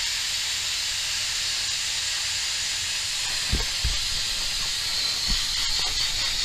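Compressed air hissing steadily as it is fed into the inner tube of a tractor's rear tire to seat the bead, with a few soft low thumps about halfway through.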